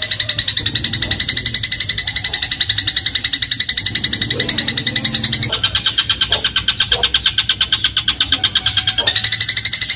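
Eurasian tree sparrow (burung gereja) giving a fast, even rattling trill of rapid chirps. The trill drops slightly in pitch about halfway through and rises back near the end.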